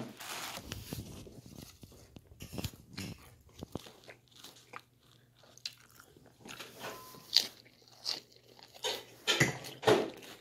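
Close-up chewing and biting of pizza, with crisp crunches of crust and mouth noises; several louder crunches come in the last few seconds.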